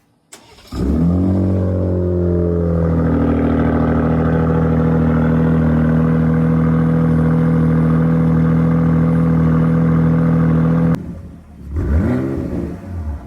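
Ram 1500's 3.0-litre Hurricane twin-turbo inline six through a Flowmaster Outlaw cat-back exhaust, starting up: a click, the engine catches within a second and flares, its pitch settling over about two seconds into a steady idle. Near the end the idle cuts off suddenly and a short rev rises and falls.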